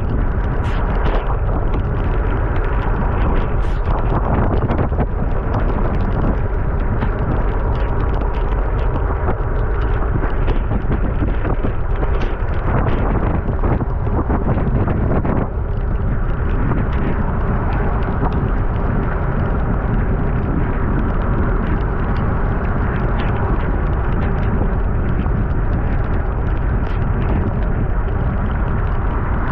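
Steady wind rumble buffeting the microphone on a moving bicycle, heaviest in the low end.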